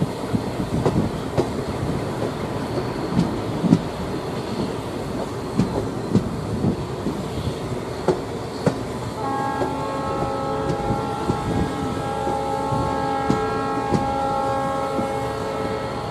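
Train running, heard from a carriage, with its wheels clicking over rail joints. About nine seconds in, a long, chord-like train horn sounds for about six seconds, wavering on and off.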